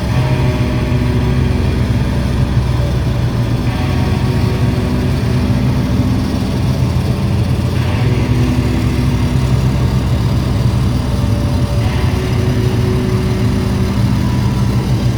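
Live grindcore band playing a slow, droning passage of heavily distorted guitar and bass. The sustained low notes change about every four seconds.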